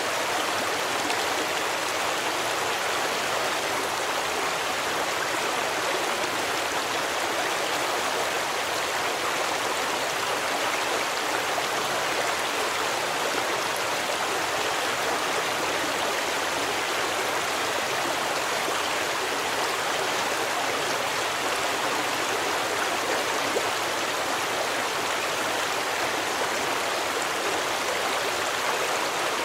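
Forest stream running over rocks: a steady, even rush of flowing water with no pauses or changes.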